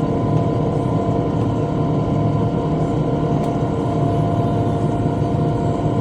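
Tractor engine running steadily while pulling a bush hog rotary cutter through brush, with an even, unbroken drone.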